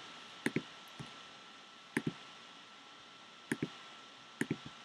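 Computer mouse clicking, short sharp clicks mostly in quick pairs, coming in small groups about every second or so.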